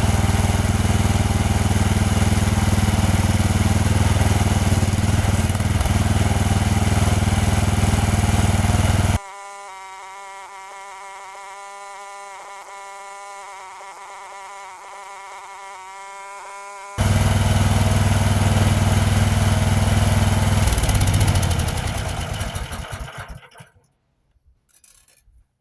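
Power drill with a large bit running steadily under load. The sound drops abruptly much quieter for several seconds in the middle, returns at full level, then winds down to a stop near the end.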